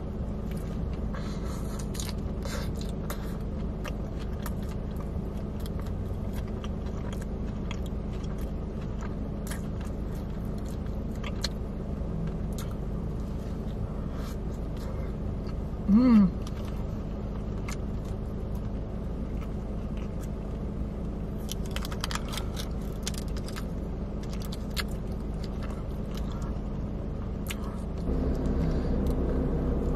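Close-up chewing and biting of a fried chicken sandwich, with small crunches and mouth clicks, over a steady low hum inside a car's cabin. A short hummed "mm" comes about halfway through, and the background hum gets louder near the end.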